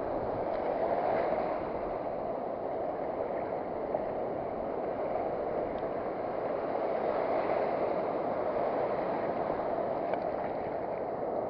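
Ocean surf washing steadily onto a sandy beach, swelling and easing slowly.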